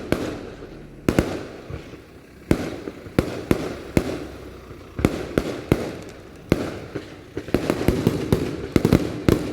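Fireworks exploding: sharp bangs spaced irregularly about a second apart, then a rapid barrage of bangs near the end.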